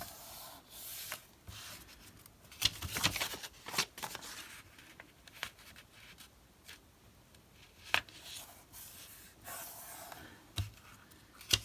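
Paper and card being handled: irregular rustling, rubbing and short tearing sounds, with a few sharp clicks.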